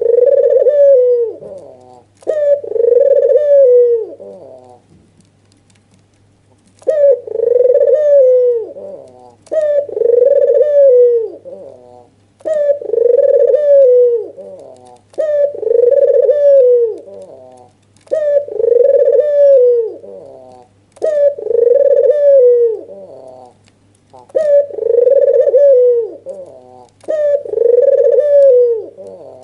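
Albino (white, red-eyed) Barbary dove cooing over and over. Each call lasts about two seconds and a new one starts every two to three seconds, with one longer pause about five seconds in. This is the excited nodding bow-coo of a calling dove, recorded for use as a lure call.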